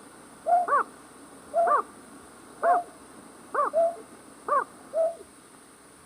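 A night bird's call, played as a lure for trapping night birds: short hooting notes, often in pairs, repeating about once a second.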